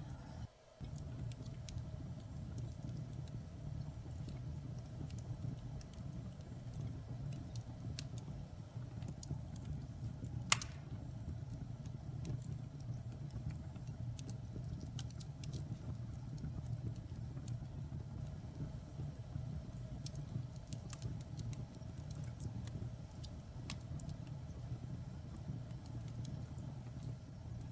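Wood fire burning in a fireplace: a steady low rumble of flames with scattered crackles and one louder pop about ten seconds in.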